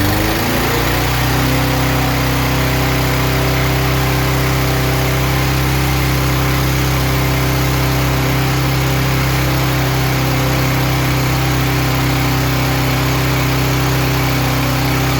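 Briggs & Stratton 6.75 single-cylinder lawnmower engine running, coming up to speed in the first second after starting, then holding a steady pitch. It cuts off abruptly near the end.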